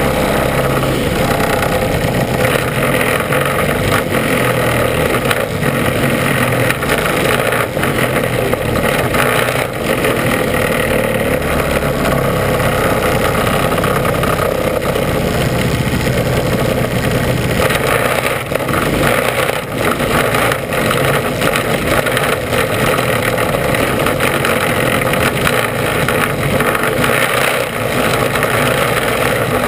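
Mini Sprint race car's engine running loudly and steadily, heard from a camera mounted inside the car.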